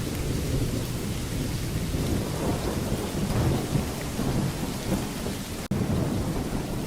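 Thunderstorm: steady rain hiss with low rolling thunder rumbling underneath. The sound cuts out for a split second near the end.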